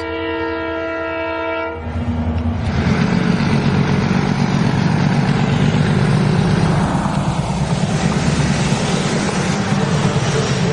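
A train horn sounds one steady tone for about two seconds. It then gives way to a steady rumbling clatter of a train running along its track.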